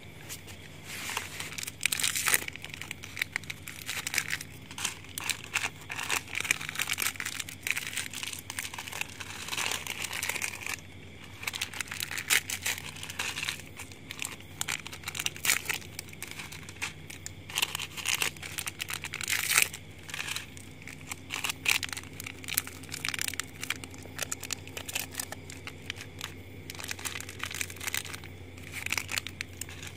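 Plastic wrapping crinkling and rustling in irregular bursts as things are unpacked and handled, over a steady low hum.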